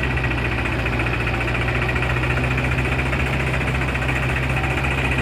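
Heavy diesel engine running steadily at constant speed, with an even low drone.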